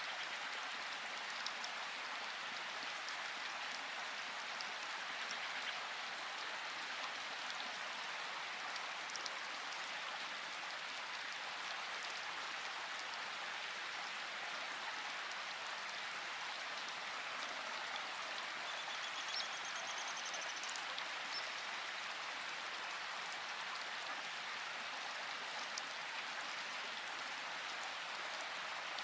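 Steady, even hiss of a background noise track, sitting mostly in the upper-middle range and much like rain, with faint scattered ticks of desk activity. A brief, faint high squeak comes about two-thirds of the way in.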